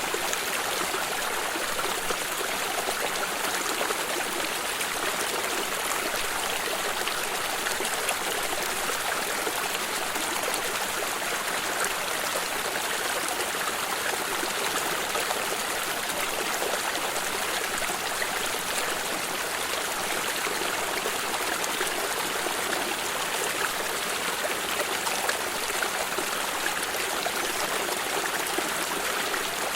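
Flowing stream: water running and trickling, a steady, unbroken rush.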